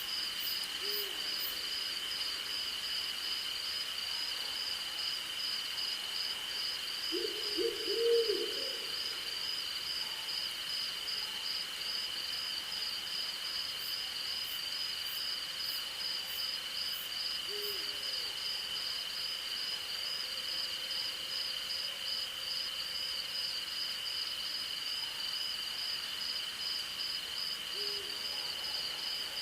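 Night insect chorus of crickets and other insects: a steady high-pitched trill with a fast pulsing chirp above it. An owl hoots now and then over it: once about a second in, a louder run of hoots about eight seconds in, and single hoots later on and near the end.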